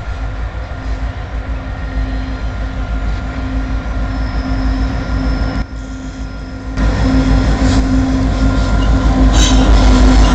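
CN freight train's diesel locomotives approaching at speed and passing close, a steady engine drone over a heavy rumble that grows louder about seven seconds in. High-pitched wheel squeal and rail clatter start near the end as the locomotives go by.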